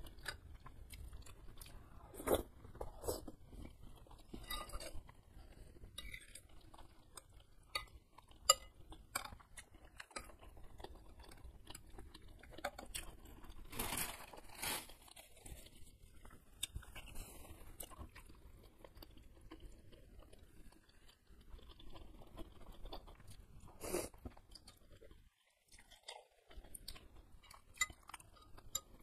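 A person chewing and eating beef meatballs and noodles in spicy soup, close to the microphone, with wet mouth sounds throughout. Scattered sharp clicks of a metal spoon and fork against the bowl are mixed in, the sharpest about eight seconds in.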